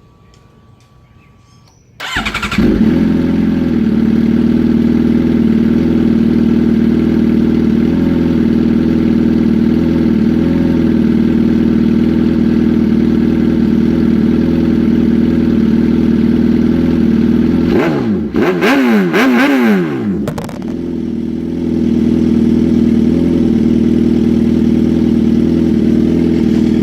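2014 Suzuki GSX-R 750's inline-four, breathing through an aftermarket header with no catalytic converter and an M4 slip-on, starts about two seconds in and idles loud and steady. Near the end it is revved up and down twice, then settles back to idle.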